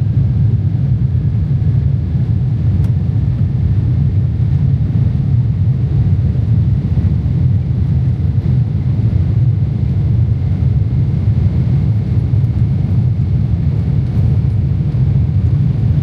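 Steady low rumble of a Boeing 777-300ER in flight, heard from inside the cabin: the GE90 engines and the airflow over the fuselage.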